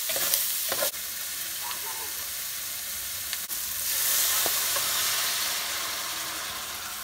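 Sliced sausage sizzling in a hot frying pan while a spatula stirs it, with a few scrapes and clicks in the first second. About four seconds in, canned jambalaya mix is poured into the pan and the sizzle gets louder.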